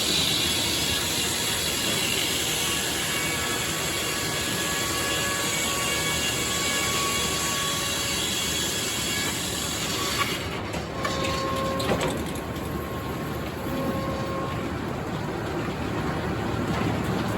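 Sawmill running and sawing red oak: a steady mechanical noise with a high hiss that falls away about ten seconds in, while the machine keeps running.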